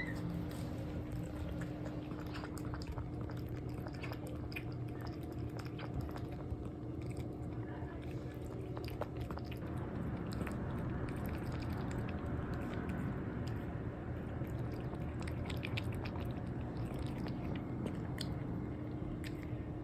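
A cat chewing its food, a string of irregular small crunches and clicks, over a steady low appliance-like hum.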